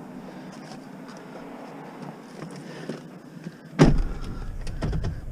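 Light clicks and handling noise, then a single loud thump nearly four seconds in, followed by low rumbling noise.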